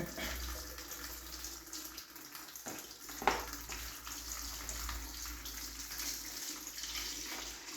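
Engine coolant pouring steadily out of a 2006 KTM 125 SX's drain into a catch container, flowing freely with the radiator cap off. One sharp click about three seconds in.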